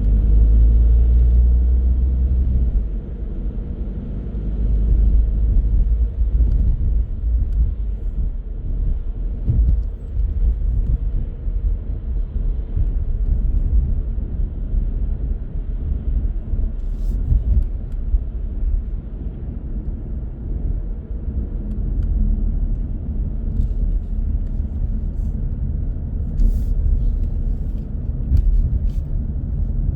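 A car driving on the road: a steady low rumble of road and engine noise, louder for the first few seconds, with a few faint clicks in the second half.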